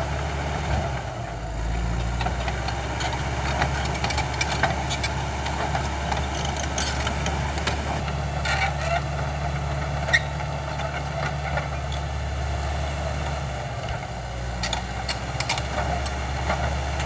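CAT D5K XL bulldozer's diesel engine running steadily, its note shifting about a second in and again near the end, with scattered clicks and cracks and one sharp knock about two-thirds of the way through.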